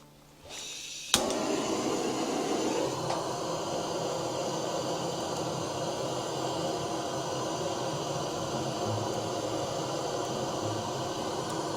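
A sharp click about a second in, then a steady hissing rush of fire as kindling in a wood-burning fireplace is lit.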